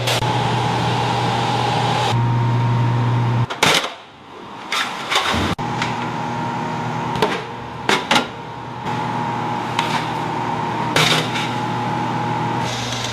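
A steady machine hum with a scattered series of sharp knocks and clicks, typical of tools handled on metal parts.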